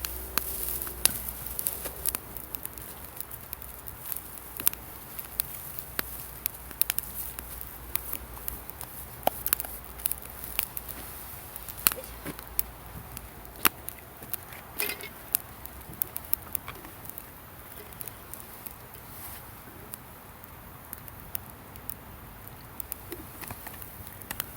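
Campfire crackling, with irregular sharp pops and snaps from the burning wood over a low steady background.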